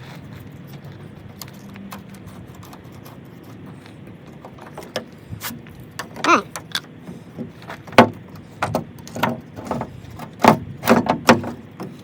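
Handling noise: after a low steady background, a run of sharp clicks and knocks begins about five seconds in, with a brief falling squeak among them.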